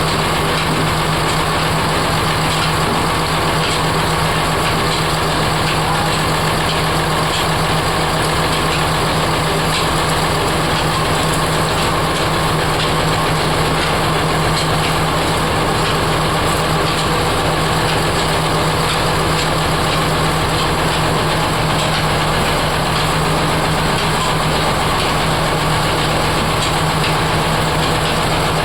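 Oil expeller (screw oil press) running steadily: a continuous mechanical drone with a steady low hum.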